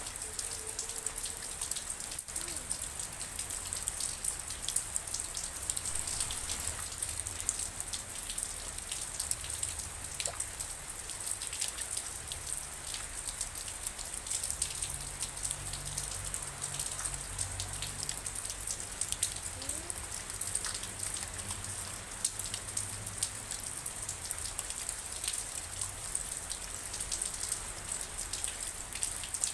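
Steady rain falling, a dense hiss with many fine drops ticking on a surface, over a low background rumble.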